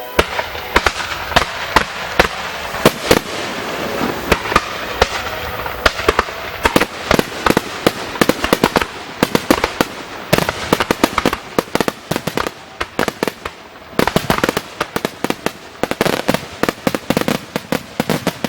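Aerial fireworks going off in a rapid barrage of overlapping bangs and crackles. The volley thins out briefly about twelve seconds in, then builds back into another dense run.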